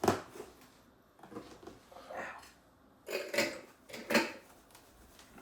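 Kitchen handling noise: a sharp knock, then a few short scrapes, rustles and knocks of containers and utensils as a seasoned flour dredge is mixed.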